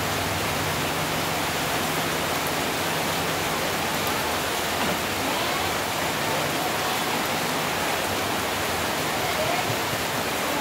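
Steady, heavy rain: an even, unbroken hiss of rainfall.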